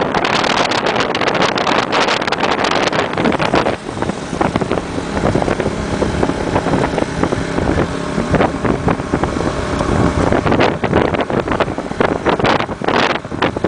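Motorbike engine running while riding, with wind buffeting the microphone. About four seconds in the wind eases and the engine's steady hum comes through, then the wind picks up again near the end.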